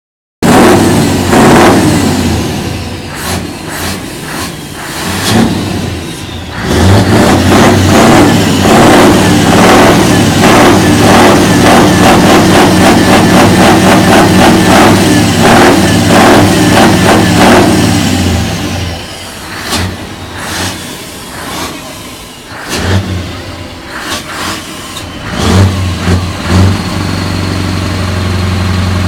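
Straight-piped Scania truck engine being worked hard: a few loud revs at the start, then a long loud pull held for about ten seconds. After that it drops back to uneven blips of throttle and settles into a steady low idle near the end.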